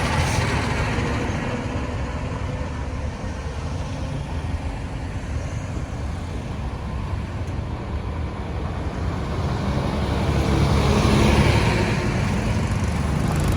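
Road traffic going past: a steady rumble of engines and tyres, growing louder about ten seconds in as a vehicle passes close by.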